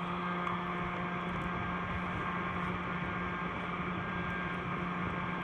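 Secondary-combustion stove burning hard: a steady rushing roar with a low constant hum, the sign of a strong draft as the stove runs hot enough to glow white.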